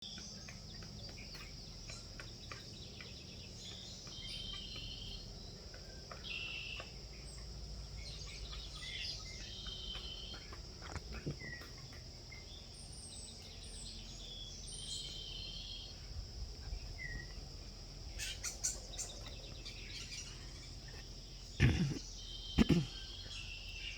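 Red-headed woodpeckers calling in short harsh notes every few seconds over a steady high insect drone. Two loud thumps come near the end.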